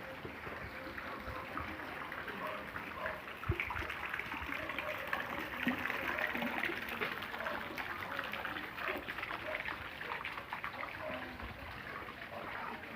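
Rain falling, with a steady, dense patter of drops and water trickling.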